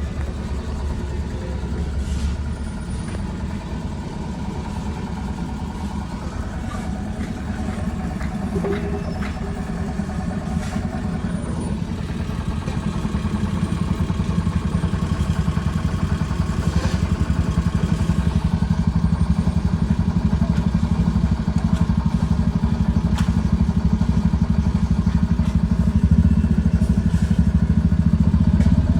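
An engine running steadily with a fast low throb, growing a little louder about halfway through, with a few light clicks and knocks.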